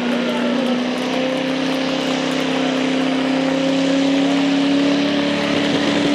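Pulling truck's engine running hard at high revs, its pitch climbing slowly and steadily.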